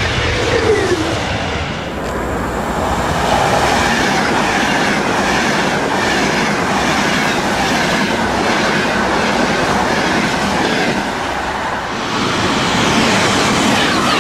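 High-speed passenger trains rushing past at speed: a loud, steady rush of wheel and air noise with the clickety-clack of wheels over rail joints. A brief dip about twelve seconds in marks a change to a second passing train, whose wheel clacks come through clearly near the end.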